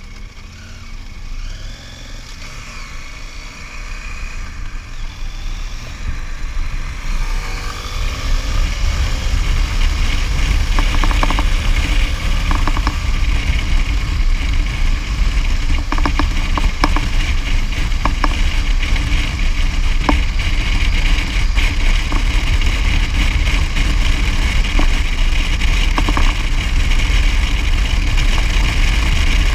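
Motorcycle on the move, its engine and road rumble with heavy wind buffeting on the microphone. It grows louder over the first several seconds, then holds steady, with a few short knocks in the middle.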